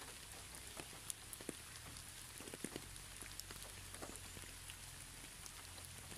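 Rain falling on garden plants: a steady soft hiss with many scattered individual drops ticking, over a low steady hum.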